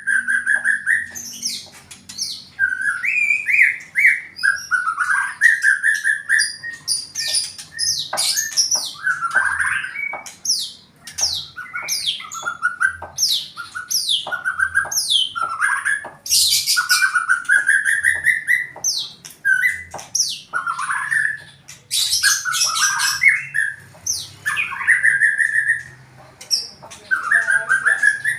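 A songbird singing a varied song almost without pause: whistled phrases mixed with many quick downward-sweeping notes.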